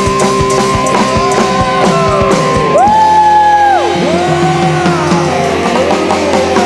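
Live band playing an instrumental passage: a lead melody holds long notes and slides up and down in pitch over regular drum hits.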